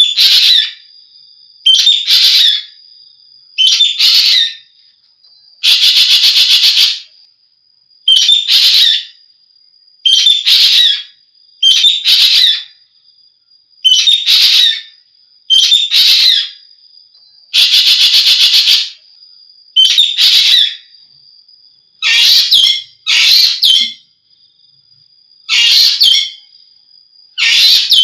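An Asian glossy starling (jovin) calling in full song: loud, shrill calls about every two seconds, two of them longer runs of rapid repeated notes. A faint steady high tone runs between the calls.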